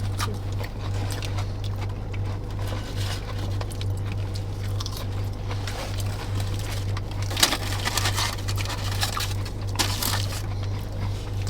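Quiet eating sounds: small clicks, crackles and rustles of chewing and handling fast-food packaging, over a steady low hum.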